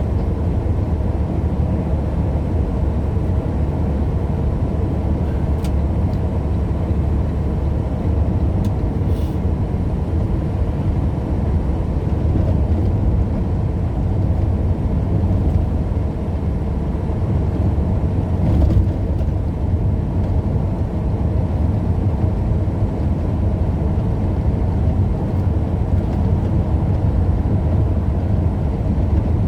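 Truck engine and road noise heard from inside the cab while driving: a steady low rumble throughout.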